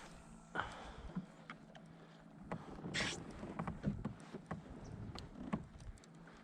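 Scattered light knocks and clicks aboard a kayak, with a short splash-like hiss about three seconds in, over a faint steady hum.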